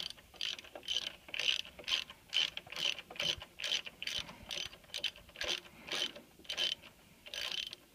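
Hand ratchet wrench clicking in steady back-and-forth strokes, about three clicks a second, pausing briefly near the end.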